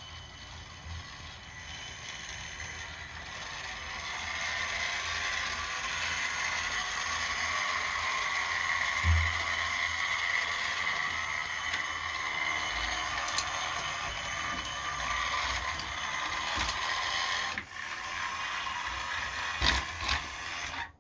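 Faller Play Train toy locomotive's small electric motor and plastic gears whirring as it runs along the track. The whirr grows louder over the first several seconds, then holds steady, with a few sharp clicks.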